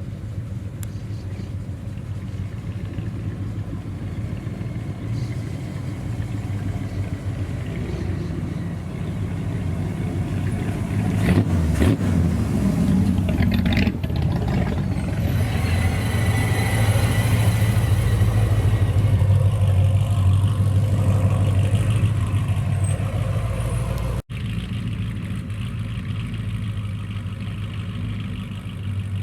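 American car engine running with a steady low rumble. It grows louder about a third of the way in and stays loud for about ten seconds. After an abrupt cut near the end, it settles to a steady idle.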